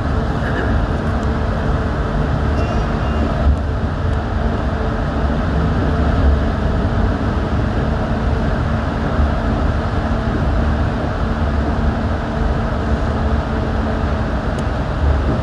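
Steady running noise inside a Yurikamome rubber-tyred automated guideway train in motion: a constant rumble of tyres on the guideway with a faint, even hum.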